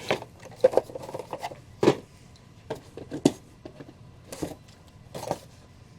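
Boxed Funko Pop figures being handled: irregular light knocks, scrapes and rustles of the cardboard-and-plastic boxes as they are picked up and set down.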